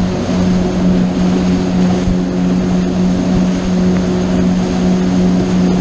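Motorboat engine running steadily under way: a constant, unchanging drone over a steady rushing noise.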